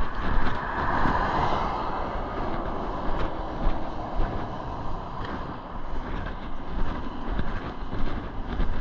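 A vehicle passing close by on the road, its tyre and engine noise loudest about a second in and then fading away.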